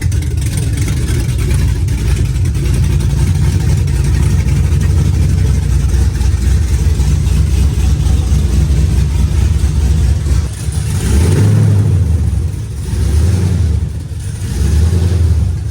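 Car engine running loudly and steadily, then revved up three times near the end.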